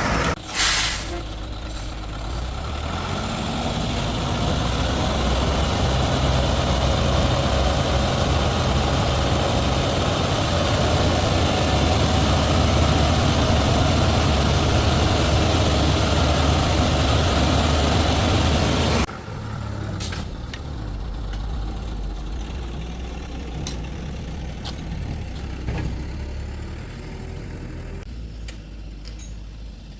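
A heavy vehicle's engine running steadily at idle, with a sharp click near the start. About two-thirds of the way through the sound drops suddenly to a quieter engine drone with a few light ticks.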